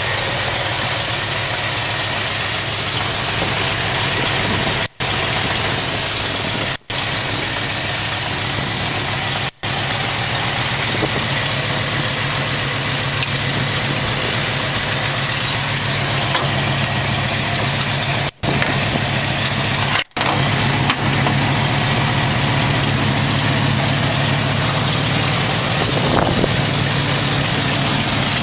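V8 engine of a 1951 Ford F-1 truck running steadily at idle, the sound cutting out for a split second five times.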